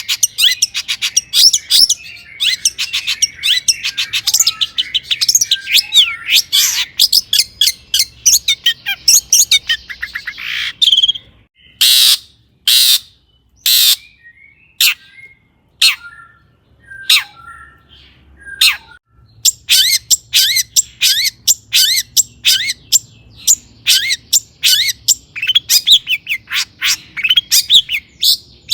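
Long-tailed shrike (cendet) singing a fast, dense, scratchy chattering song. About twelve seconds in, the chatter gives way to three loud harsh notes about a second apart, then sparse notes, before the rapid song resumes.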